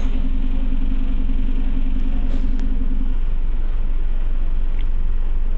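Cabin noise of a Scania OmniCity bus underway: a steady low rumble of the diesel engine and road, with a steady hum that cuts off about three seconds in.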